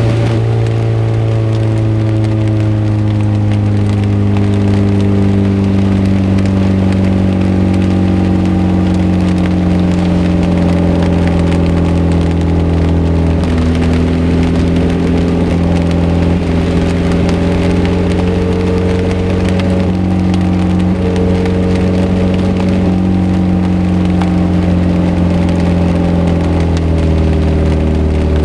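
Morgan 4/4 roadster driving in heavy rain: the engine runs with a steady note that slowly sinks in pitch and drops lower near the end. Under it is a dense crackle of rain and spray on the car.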